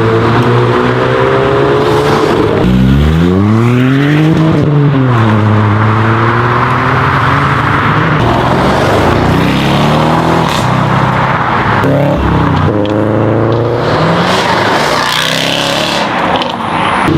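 High-performance car engines revving and accelerating hard, in a run of short clips one after another. About three seconds in, an engine's pitch sweeps up steeply and falls back, and the engine note shifts several more times as new cars pull away.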